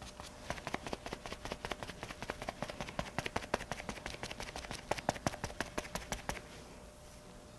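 Rapid light tapping, several taps a second, that stops about six seconds in: a makeup puff or sponge being patted against the face.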